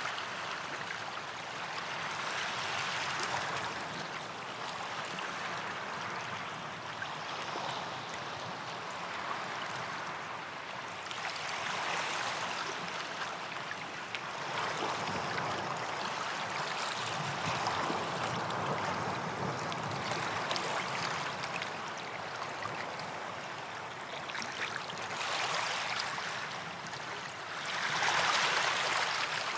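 Small sea waves washing onto a sandy beach, a continuous wash that swells and eases every few seconds, with a louder wave breaking near the end.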